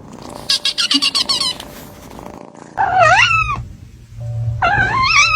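Kitten meowing: two high meows that rise and fall in pitch, a little under two seconds apart. Before them comes a quick run of short, high squeaks.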